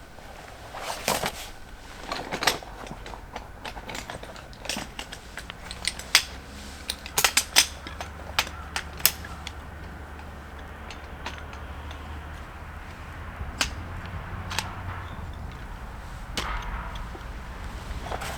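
A series of sharp, irregular knocks and clicks, most crowded and loudest around the middle, over a faint low rumble.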